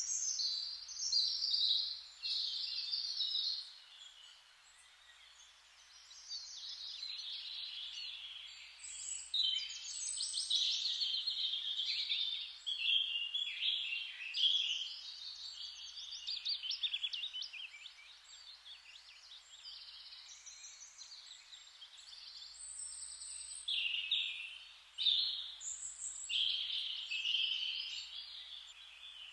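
Songbirds singing: bouts of quick, high chirping and trilling phrases with short lulls between, over a faint steady hiss.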